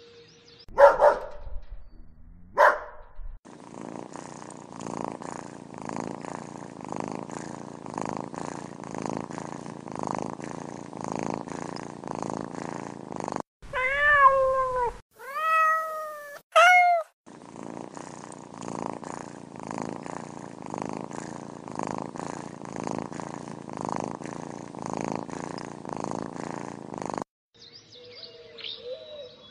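Tabby kitten purring in a steady rhythm, broken about halfway by four short, high, rising-and-falling meows; two short sharp sounds come in the first few seconds.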